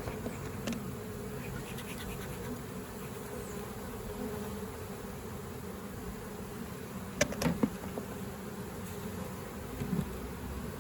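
Honeybees buzzing steadily in a swarm as it is moved into a hive. A few sharp knocks sound about seven seconds in, and a smaller one near the end.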